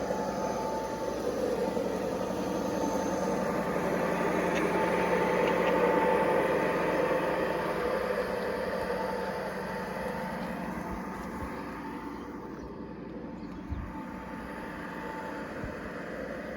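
G scale model locomotive running on garden track, its motor and gears humming steadily. The sound grows louder to a peak about six seconds in as it passes, then fades away, with a light knock near the end.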